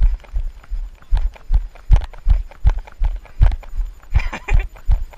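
Running footsteps thudding in a steady rhythm, about two and a half strides a second, the impacts jolting a camera carried by the runner.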